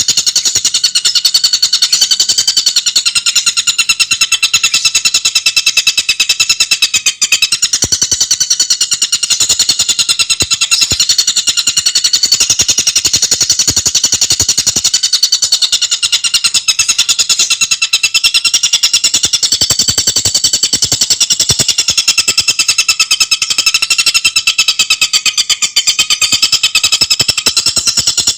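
Tengkek buto bird singing a continuous, rapid chatter of tightly packed notes, many to the second, layered at several pitches.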